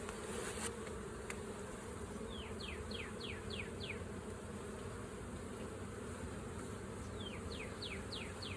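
Honeybees buzzing in a steady hum around an opened hive. Twice, a run of five or six quick falling chirps cuts in, about two seconds in and again near the end.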